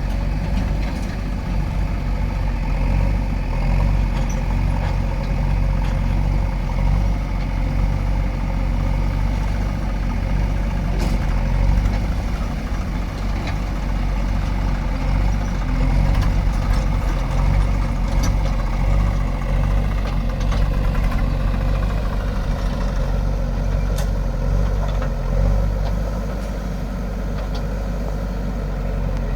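Heavy diesel engine of earth-moving machinery running steadily, with a few faint sharp clicks.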